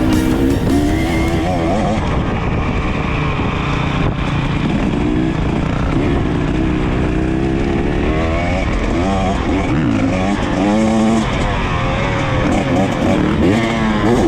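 KTM EXC 300 TBI two-stroke single-cylinder engine revving up and down repeatedly while riding, its pitch rising and falling with throttle and gear changes.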